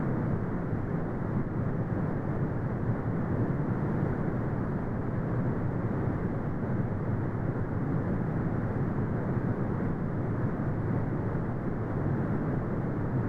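Brown noise: a steady, deep rumbling hiss with most of its energy low down and little above the midrange, unchanging in level.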